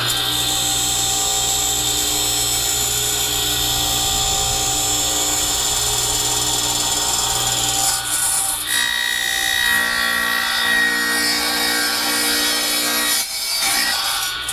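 Electric woodworking power tool running and cutting through a wooden board, a steady loud motor whine with the blade in the wood; its tone shifts about two-thirds of the way through and drops briefly near the end as the load changes.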